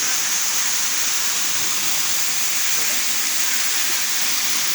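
Water falling steadily into a natural pool: a constant, even rushing hiss with no breaks.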